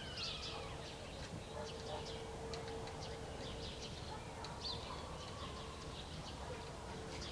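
Songbirds chirping and twittering in many short, high calls, one falling whistle right at the start, over a low background rumble and a faint steady hum.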